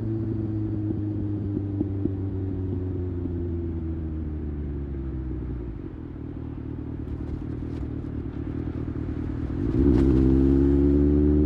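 Kawasaki ZX-6R's 636 cc inline-four engine, heard from the bike while cruising: the revs slowly fall for about six seconds as the throttle eases off, then near the end the throttle opens and the engine gets suddenly louder with rising revs.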